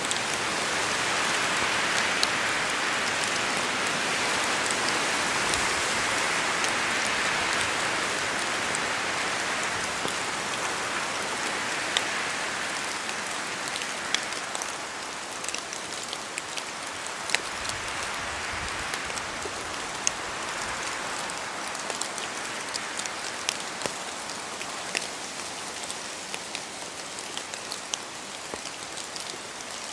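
Rain falling in a forest, a steady hiss that swells over the first several seconds and then slowly eases, with many sharp drips from the trees landing throughout.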